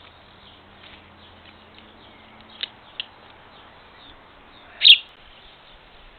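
Small garden birds chirping: two short chirps about two and a half and three seconds in, then a single much louder chirp near the five-second mark.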